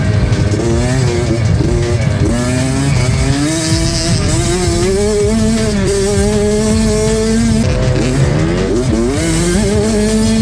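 A 65cc two-stroke motocross bike's engine being ridden hard: the pitch climbs and drops several times in quick succession as the throttle and gears change, then holds high before falling and climbing again near the end.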